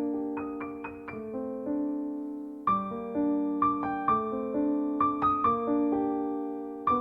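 Slow, gentle piano background music: single notes and chords struck and left to ring and fade, with a louder group of notes a little under three seconds in.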